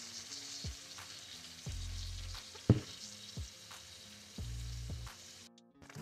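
Ground beef and tomato sauce sizzling in a skillet, a steady hiss with a few light ticks and one sharper tap about halfway through. The sizzle breaks off briefly near the end. Short low notes of soft background music repeat every couple of seconds underneath.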